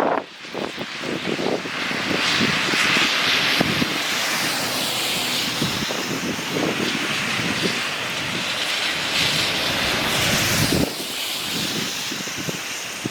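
Strong wind buffeting the microphone, with a steady rushing roar that swells about two seconds in and drops off sharply near the end.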